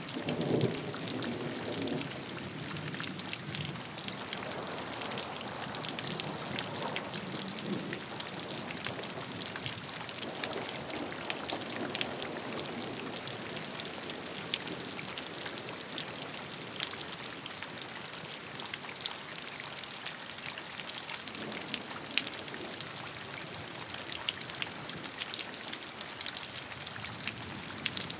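Steady rain, with many separate drops ticking through the hiss. A few soft swells of lower sound rise and fade along the way.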